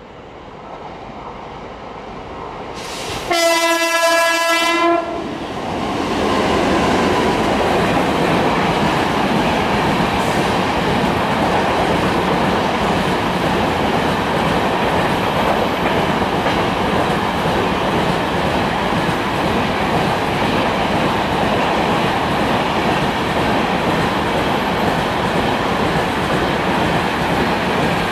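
An express train approaches with a rising rumble and sounds one steady horn note for about a second and a half. It then passes at speed: a WAP-7 electric locomotive and its passenger coaches, making a steady rush of wheels on rail with clickety-clack.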